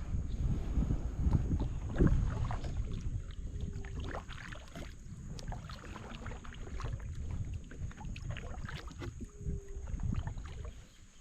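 Kayak paddle strokes splashing in river water, with wind rumbling on the microphone.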